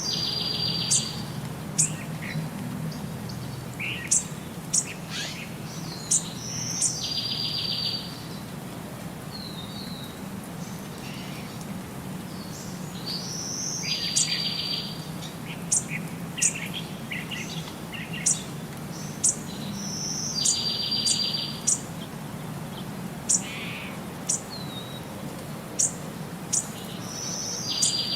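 Birds chirping: short high chirps throughout, with a roughly one-second buzzy trill that comes back about every seven seconds, over a steady low hum.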